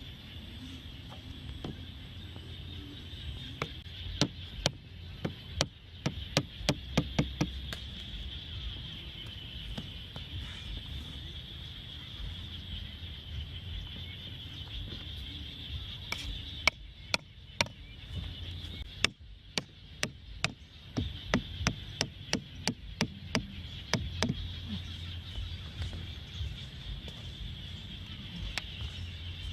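Sharp clicks and knocks in two flurries of several a second, like hand work on a small object, over a steady high insect buzz.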